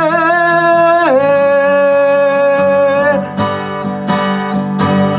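Acoustic guitar song: a held sung note, dipping in pitch about a second in, over guitar chords. From about three seconds in, the voice drops out and the acoustic guitar is strummed in a steady rhythm.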